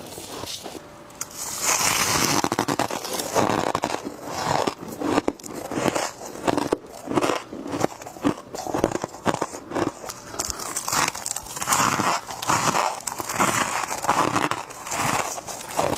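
A person biting and chewing humidifier frost: a quick, irregular run of crisp crunches that begins about a second and a half in and goes on without pause.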